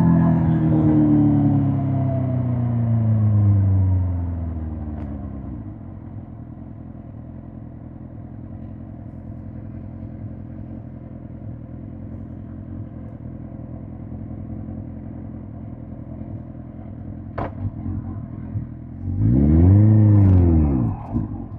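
2005 Suzuki GSX-R1000 K5's inline-four engine winding down in pitch as the bike slows, then settling to a steady low idle for more than ten seconds. A single sharp click comes during the idle, then a quick throttle blip sends the revs up and straight back down near the end.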